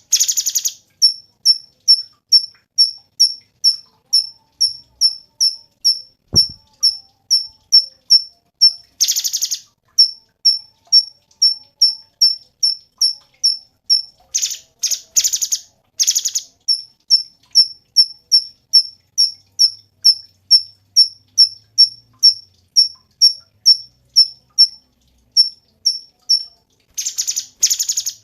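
Cucak cungkok song: a fast, even run of short, high chirped notes, about two to three a second, broken a few times by louder, harsh rattling bursts.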